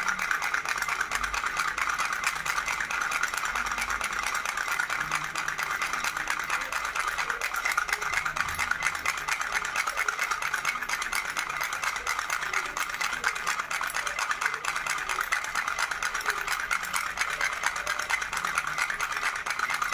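Baby rattle shaken without pause, its beads clicking in a fast, dense, even rattle.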